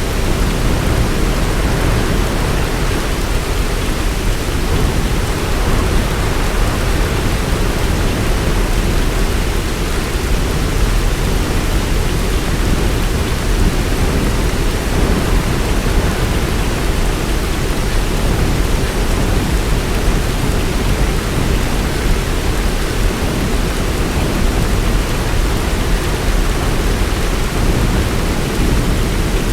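Heavy rain falling steadily: a dense, unbroken hiss with a deep low rumble underneath.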